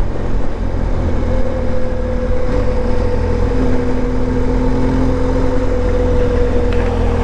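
Motorcycle cruising at highway speed: a steady engine drone under heavy low wind rumble on the rider's microphone, the drone dropping slightly in pitch near the end.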